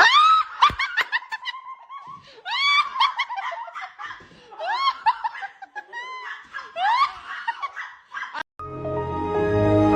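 A run of high, laugh-like squealing calls, many of them swooping upward in pitch, then a cut to music about eight and a half seconds in.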